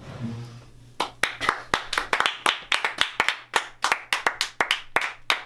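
A small group of people clapping by hand, starting about a second in: separate sharp claps, several a second, that stay distinct rather than blending into a roar of applause.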